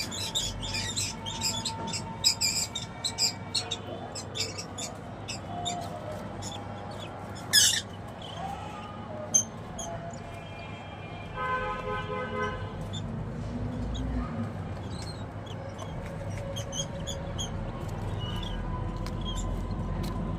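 Small caged birds chirping in short, sharp calls scattered throughout, over a steady low hum. A held, horn-like tone sounds for about a second and a half in the middle.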